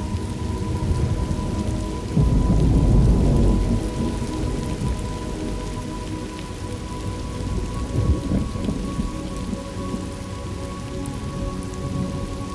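Thunderstorm ambience: rain falling steadily, with a loud rumble of thunder swelling about two seconds in and a smaller roll of thunder around eight seconds.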